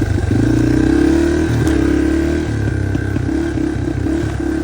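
Dirt bike engine running under throttle, the pitch climbing briefly in the first second, then holding. From about halfway on it goes choppy as the throttle is worked on and off.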